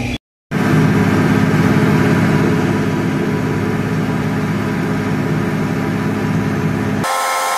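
Combine harvester running steadily: a loud, even engine drone that cuts in about half a second in after a brief gap and cuts off abruptly near the end, where a different, higher machine sound takes over.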